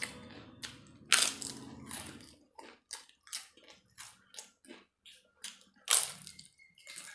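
Close-up eating sounds: a person biting and chewing food, with a run of short crunches about one to two a second. Two louder, sharper bites come about a second in and near six seconds.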